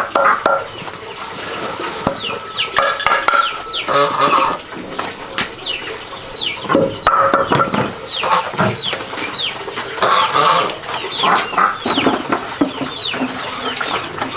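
Chickens clucking, mixed with many short high-pitched calls that drop in pitch, coming in clusters.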